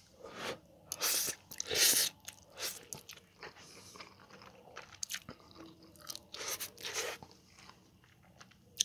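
A person chewing a mouthful of spicy stir-fried instant noodles with chopped raw green chili peppers, close to the mic: irregular crunchy bites and chewing, loudest about one to two seconds in and again near seven seconds.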